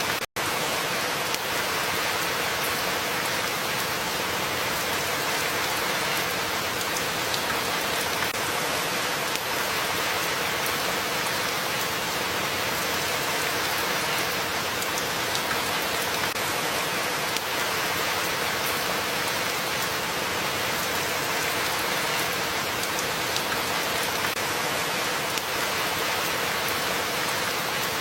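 Steady rain falling, an even hiss with many fine drop ticks, and a very brief dropout just after the start.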